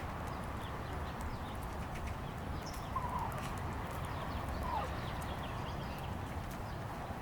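A few short slurred bird calls, one about three seconds in and another near five seconds, with faint higher chirps, over a steady low outdoor rumble.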